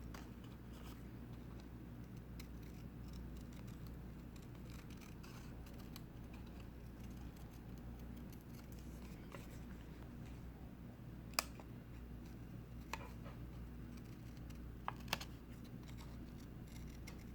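Scissors cutting construction paper: faint snipping and rustling over a low steady hum, with a few sharp clicks, the loudest about eleven seconds in.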